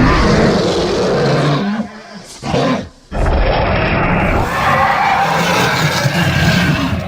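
Designed roars of a giant monitor lizard creature, layered from Komodo dragon, Megalania and Tarbosaurus sounds: a long rough growl, a short one just after two seconds in, a brief break, then a second long growl.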